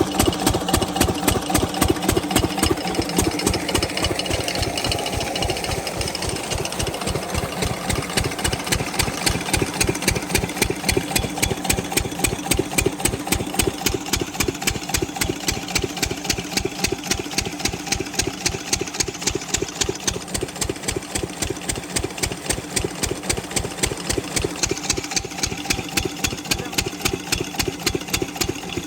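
Stationary diesel engine of an irrigation water-pump set running at a steady idle, its firing strokes an even, rhythmic thump at a few beats a second.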